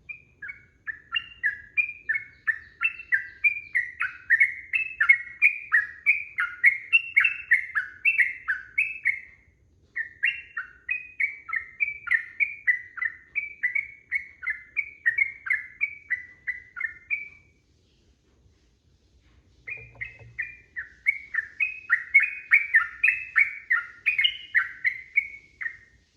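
Yellow-vented bulbul (trucukan) singing in long, fast runs of repeated chirping notes, three bouts with short breaks between them.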